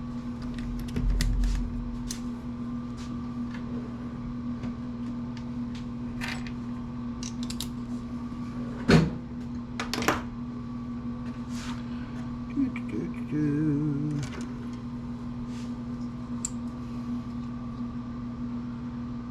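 Scattered clicks and knocks of metal amplifier parts being handled during teardown, with one sharp knock about nine seconds in and a second about a second later. A steady low electrical hum runs underneath, and a brief low wavering drone comes near the end.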